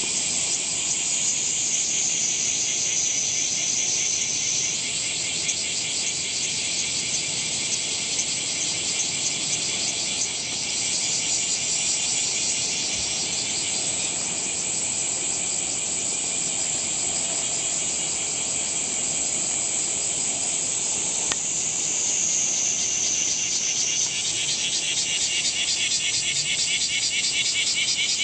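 Cicadas singing in a loud chorus: a steady, high-pitched, rapidly pulsing buzz from several overlapping insects, the mix shifting as individual voices drop out and join in.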